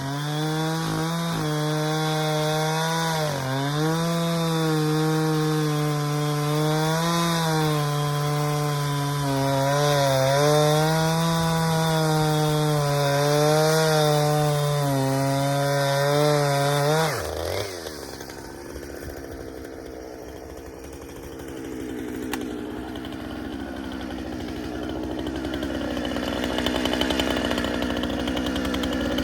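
Two-stroke chainsaw running at high revs and cutting wood, its pitch dipping each time it bogs under load. A little over halfway through, the throttle is released and the engine note falls away sharply. A quieter, rougher engine sound then builds toward the end.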